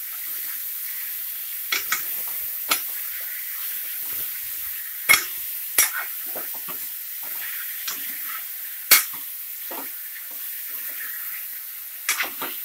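Chicken pieces frying in oil in an open pressure cooker, sizzling steadily while a steel ladle stirs them. The ladle scrapes and knocks sharply against the metal pot every few seconds.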